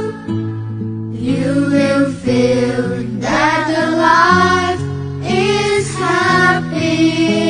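A gentle song: a voice sings three melodic phrases over steady, held accompaniment chords.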